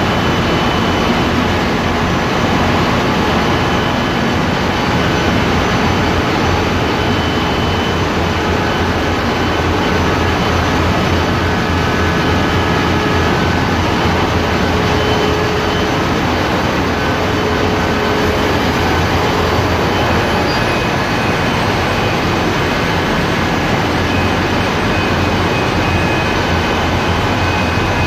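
Ship's engine room machinery running: a loud, unbroken diesel roar and hum with a few faint steady whining tones on top.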